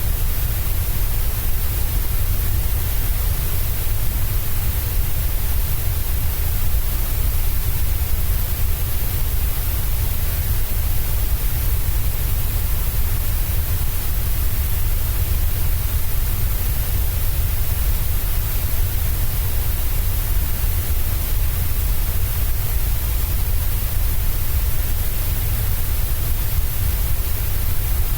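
Steady, unchanging white noise: an even hiss with a strong low rumble underneath and a bright top.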